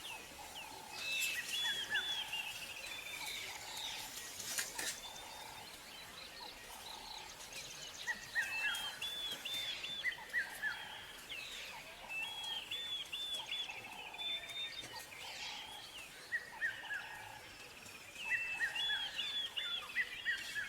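Birds singing in the bush: repeated bouts of quick high chirps and down-slurred notes, with a fainter lower note repeating about once a second underneath and a few faint clicks.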